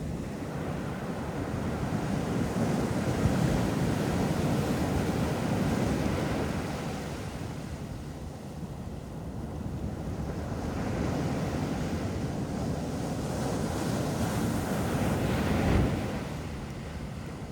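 Ocean surf breaking and washing up a beach in two slow surges, the second cresting near the end, with wind buffeting the microphone.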